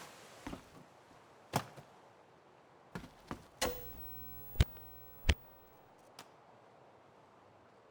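A series of separate sharp clicks and knocks, about eight in all, the loudest near the middle, with a faint hum and a thin high tone for about a second and a half in the middle of them.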